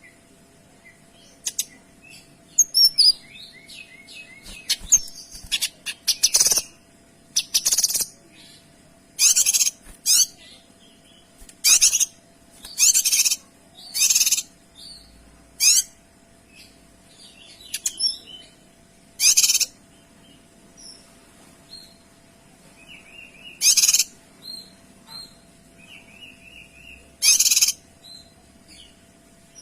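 Kinoy songbird singing: loud, sharp, high-pitched bursts of call notes repeated every second or two, with softer twittering notes between them.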